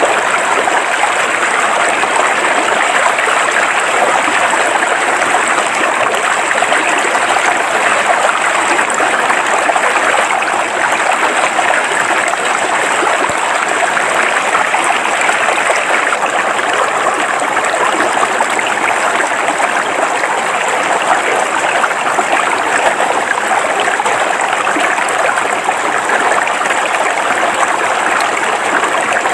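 River water flowing over rocks: a steady, unbroken rush.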